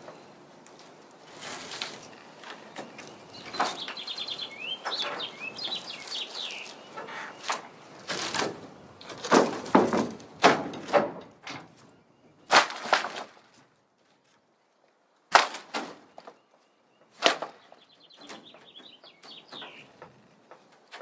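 Knocks, cracks and scraping of rotten wooden bed-floor boards being pried and broken out of an old ramp truck's steel bed, with a short silent gap midway. A bird chirps near the start and again near the end.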